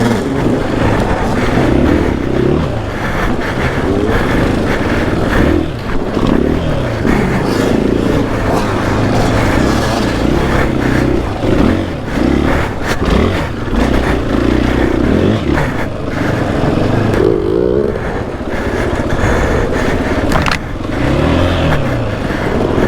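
KTM 500 EXC-F dirt bike's single-cylinder four-stroke engine on the throttle over trail riding, revving up and dropping back again and again.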